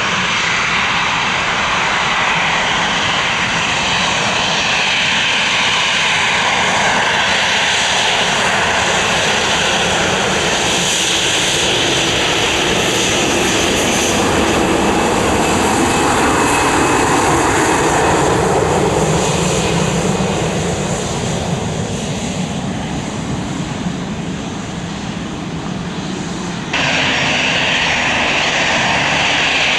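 Loud, continuous engine noise of a passenger jet moving past, with a faint whine over the rumble. It eases off somewhat in the second half, then cuts suddenly back to full loudness near the end, where the footage changes to another aircraft.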